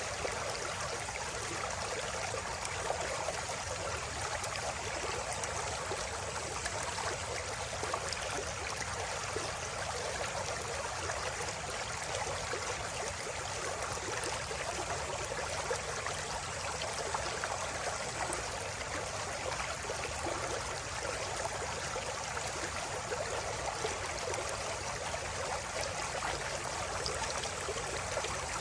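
Flowing river water, a steady babbling rush that holds an even level throughout.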